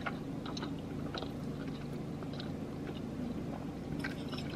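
Close-up chewing of a mouthful of creamy ramen noodles, with small wet mouth clicks and smacks. About four seconds in, a metal fork clinks and scrapes in a ceramic bowl. A low steady hum runs underneath.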